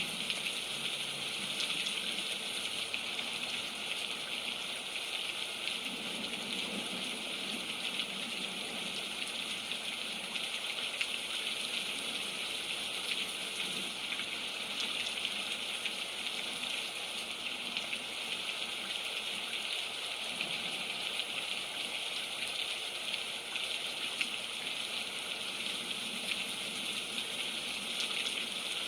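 Steady rain falling and pattering on the roof of a tent or fort, with tiny drops ticking through it.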